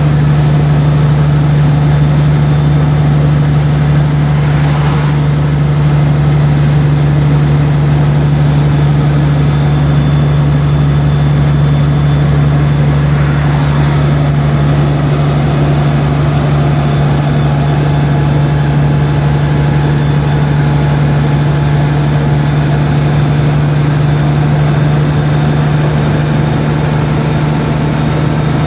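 Steady low engine drone and road noise of a vehicle driving down a highway grade. Two faint, brief swells of noise come about five and fourteen seconds in.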